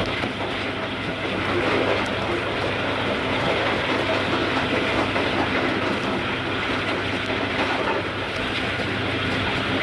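Passenger train running past at speed: a steady rumble and clatter of wheels on the rails.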